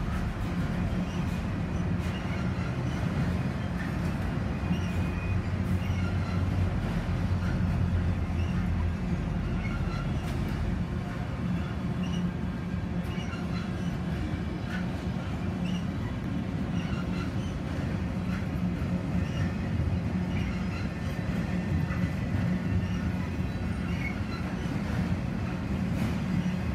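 Freight train of autorack cars rolling steadily across a steel girder bridge: a continuous low rumble of steel wheels on rail, with faint clicks and a few brief, faint wheel squeals.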